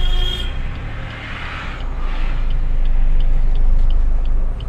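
Car engine running slowly, heard from inside the cabin as the car reverses: a steady low hum.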